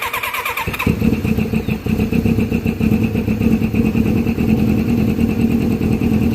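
Kawasaki Ninja motorcycle engine being started on the electric starter after ten years of storage: a brief crank, then it catches about a second in and settles into steady running.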